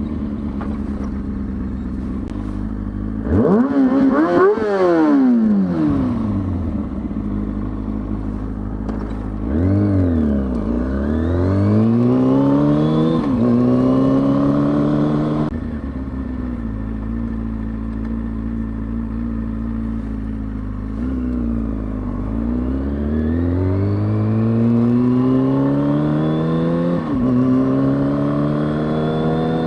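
2003 Kawasaki ZX-6R 636's inline-four engine idling, then blipped once with a quick rev up and back down. It then pulls away, the pitch rising through the revs and dropping at an upshift, runs steady for a while, and accelerates again with another upshift near the end.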